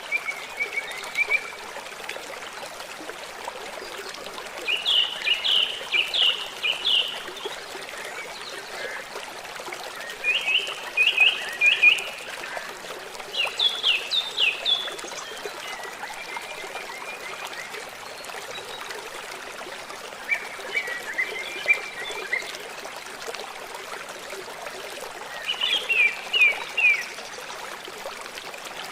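A songbird singing short phrases of quick, high notes, repeated about every five seconds, over the steady sound of running water.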